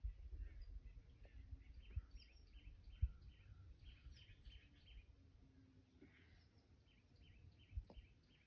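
Small birds chirping over and over in quick short notes, with a low rumble of wind on the microphone and a few soft knocks.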